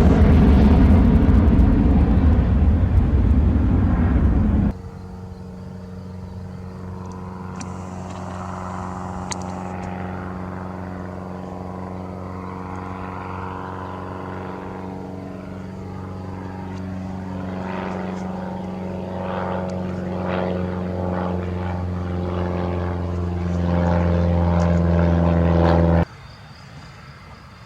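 Loud aircraft rumble for the first few seconds, cut off abruptly. Then a light propeller aircraft's engine drones with a steady pitch, growing louder as it nears, until a sudden cut near the end.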